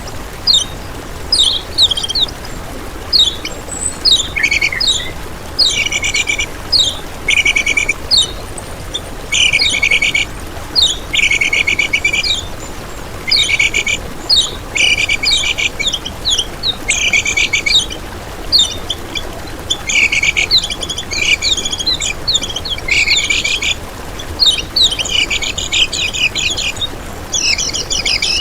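Kecial kuning songbird calling over and over: short high falling notes, then quick trilled, chattering phrases of about half a second, repeated roughly once a second.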